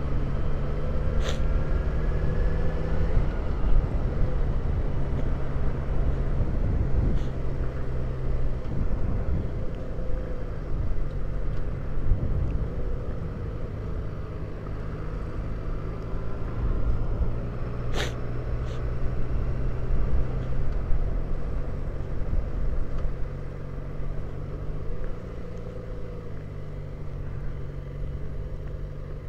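Motorcycle engine running steadily while riding along, with a low rumble beneath it. Two short sharp clicks, one about a second in and one about two-thirds of the way through.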